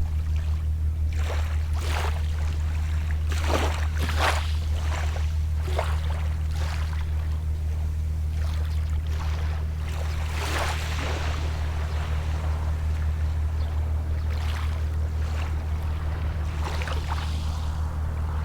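Small waves washing onto the shore in short breaks, over a steady low hum of a boat engine running on the water.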